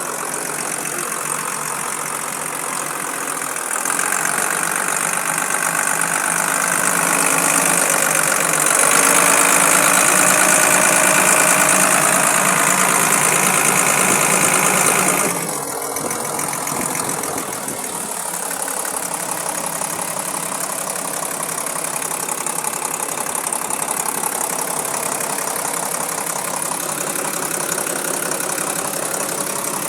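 Mitsubishi 6D14 diesel engine running. It picks up speed about four seconds in and again a few seconds later, holds there, then drops back to idle about halfway through and idles steadily.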